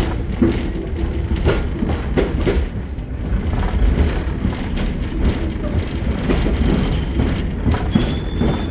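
Steam-hauled passenger train rolling along the track, heard from aboard: a steady low rumble with scattered clicks of the wheels over the rails, and a brief thin squeal near the end.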